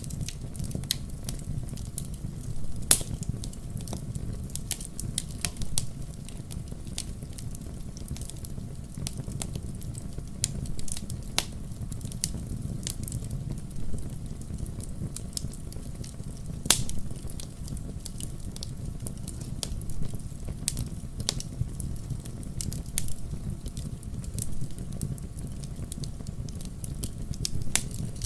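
Wood campfire crackling and popping, sharp irregular pops over a steady low rumble of the flames.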